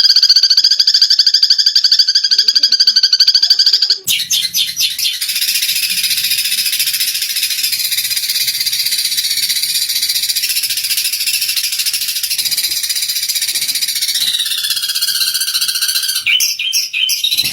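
Eurasian tree sparrows chattering in a continuous rapid, buzzy trill: the excited calls of sparrows fighting. The sound changes abruptly about four seconds in and again near the end.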